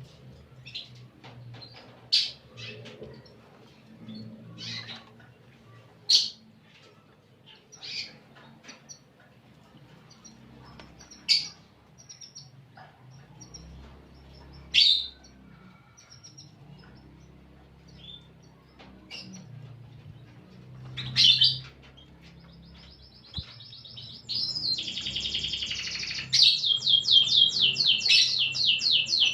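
Domestic canary singing: scattered short, high chirps, then about three-quarters of the way in it breaks into a loud, fast rolling trill of rapidly repeated notes that carries on to the end.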